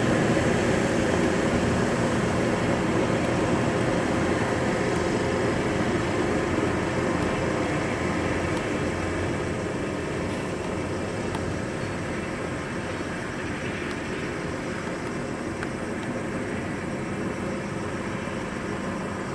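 Heavy diesel vehicle running steadily, its engine drone and road noise slowly fading over the whole stretch.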